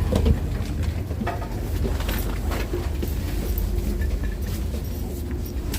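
SNCB double-decker passenger train running on the rails: a steady low rumble with scattered clicks. A faint steady hum joins about halfway through.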